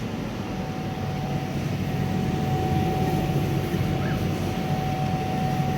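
Steady whirring hum of a running CO₂ laser cutter's fans and air pump, with a thin steady high tone above it.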